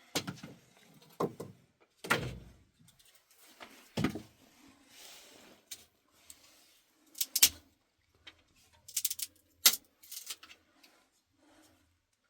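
Irregular knocks, thuds and clatters of objects being handled and set down, about a dozen in all, with a close cluster of sharp clacks around the middle and another near the end.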